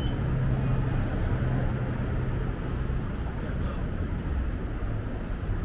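City street traffic: the steady hum of a vehicle engine for the first couple of seconds over a continuous low rumble of road noise.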